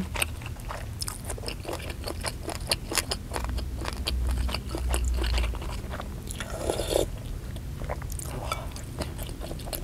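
Close-miked chewing of beef-tendon meatballs: rapid small wet clicks and crunches as the gristly tendon bits are bitten through. A short, louder noisy sound comes about seven seconds in.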